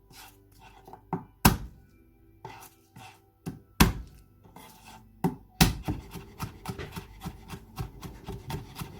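Kitchen knife chopping garlic on a chopping board. A few separate hard knocks come first, then rapid, steady chopping starts about two-thirds of the way in, at roughly four or five strokes a second.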